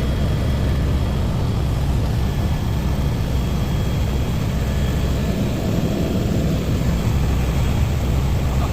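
Helicopter engine and rotor running steadily: a constant, loud, low drone with no breaks.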